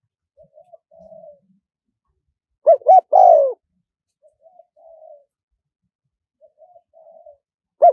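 Spotted dove cooing: one loud phrase of two short coos and a longer falling coo about three seconds in, with softer, quieter coo notes before and after it.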